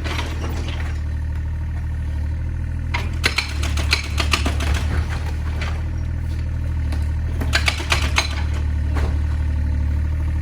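Excavator's diesel engine running steadily during house demolition, with two spells of crashing and cracking as masonry breaks and falls, about three to five seconds in and again around eight seconds.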